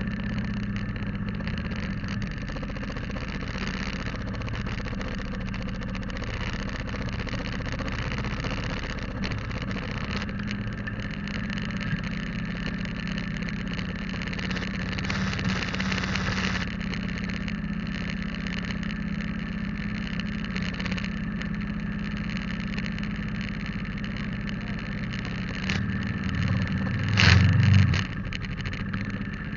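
Motorcycle engine running at a steady speed while riding, a constant hum under road and wind noise. About two seconds before the end a brief louder burst stands out.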